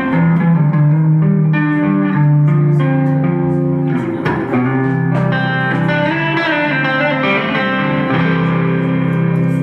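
A live band playing an instrumental passage led by electric guitar over bass, with sustained and picked notes and no singing.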